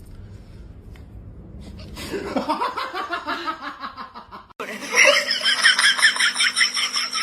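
People laughing in quick, choppy bursts, starting about two seconds in. The sound cuts off abruptly about halfway through and then resumes louder.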